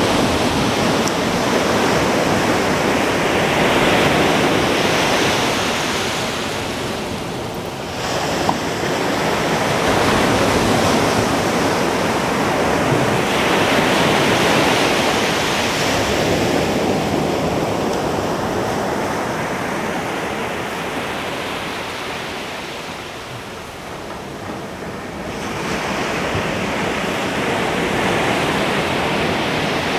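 Ocean waves breaking on a beach, the surf swelling and easing in slow surges about every ten seconds, with some wind on the microphone.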